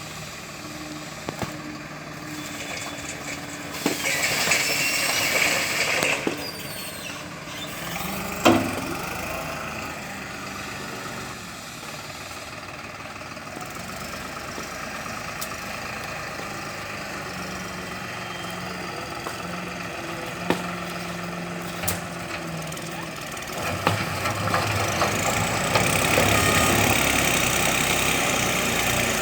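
New Holland 5510 tractor's diesel engine running with a front loader, rising in loudness twice as it is revved up, once briefly and once for several seconds near the end. A single sharp knock sounds about eight seconds in.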